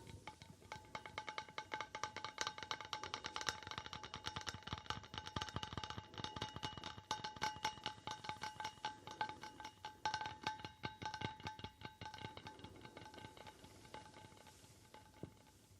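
Rapid, continuous tapping on a hard object that rings with a few steady tones under the taps. The tapping grows sparser and quieter near the end.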